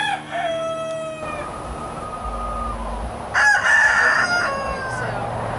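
Rooster crowing twice: one crow trailing off about a second in, and a louder one about three and a half seconds in.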